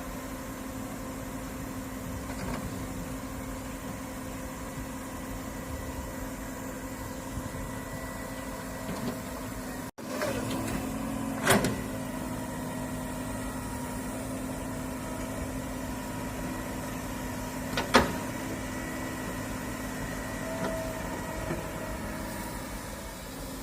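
Excavator engine running steadily with a low hum. Two sharp knocks cut through it, one about halfway and a louder one about three quarters of the way in.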